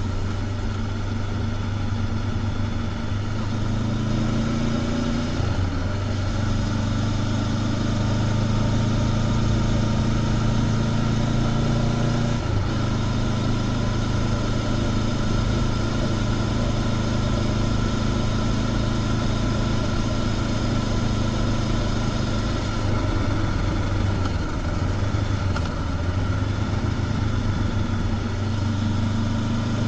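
Honda CB500X's 471 cc parallel-twin engine, through its stock exhaust, running steadily under way at a cruise. Its pitch dips briefly about five and twelve seconds in.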